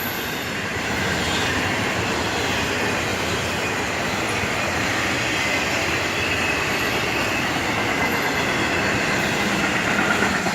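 A long freight train of intermodal and tank cars rolling past, its steel wheels on the rails making a steady rumble.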